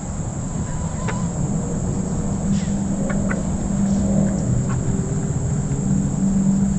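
Chickens giving a few short, soft calls at their feed, over a steady low hum and a constant high-pitched drone.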